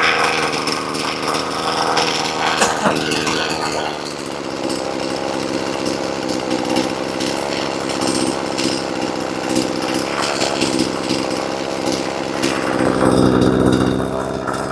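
Husqvarna 240 two-stroke chainsaw running on its newly swapped engine, with no bar and chain fitted. It runs steadily, then its note changes and grows louder about thirteen seconds in.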